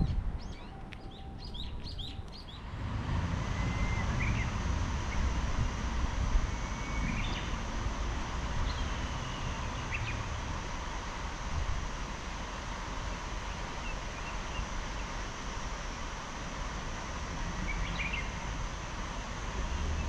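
Small birds chirping: a quick run of high chirps in the first couple of seconds, then scattered short calls. A steady rushing background noise comes in about two and a half seconds in.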